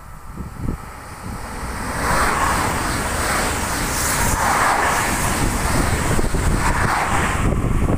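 Electric multiple-unit passenger train passing close by along the platform: a rush of wheel-on-rail and air noise that builds over the first two seconds and stays loud and even as the carriages go by.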